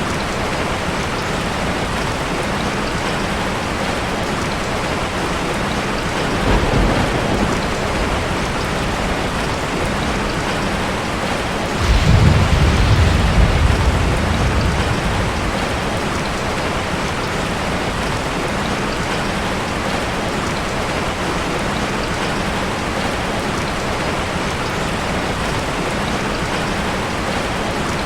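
Heavy rain falling steadily, with a short roll of thunder about six seconds in and a louder, low clap of thunder about twelve seconds in that rumbles for a few seconds before fading.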